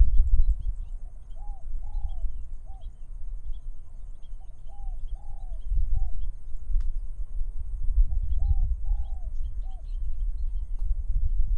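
A dove cooing the same three-note phrase three times, about three and a half seconds apart. Under it is a low rumble of wind on the microphone, with faint chirps of small birds.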